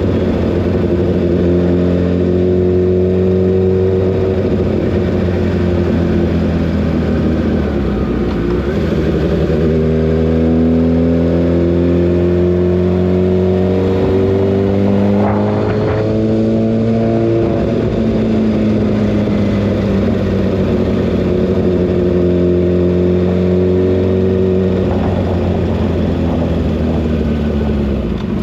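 Kawasaki ZX-6R's inline-four engine running steadily at highway speed, its pitch easing off and climbing again a few times as the throttle is rolled off and back on.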